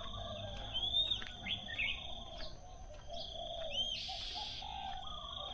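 Songbirds chirping in short, arched chirps, several in a few seconds, over a steady high insect trill.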